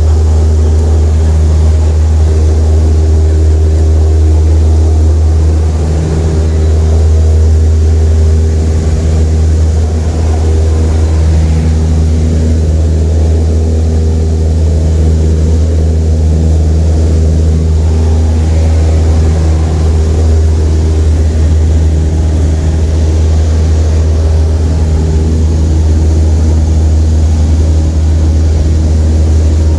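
Small single-engine propeller airplane's engine running steadily, a loud, even low drone that does not let up.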